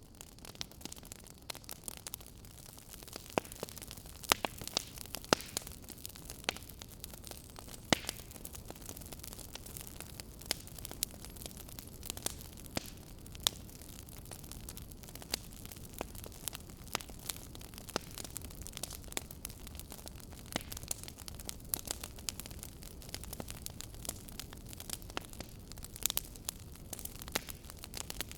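Wood fire burning in a fireplace, crackling and popping irregularly over a steady low rumble of the flames, with a few sharper, louder pops.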